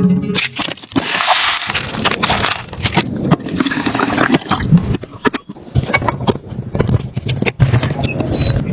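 Irregular crunching, scraping and knocking handling sounds, with a short high beep near the end.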